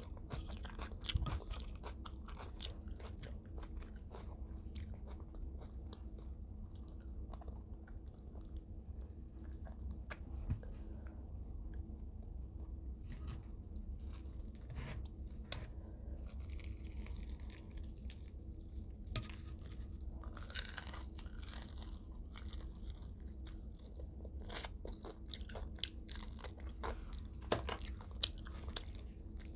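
Close-miked eating: chewing and biting into extra crispy fried chicken, with scattered crunches and crackles and a few sharper clicks in the second half, over a steady low hum.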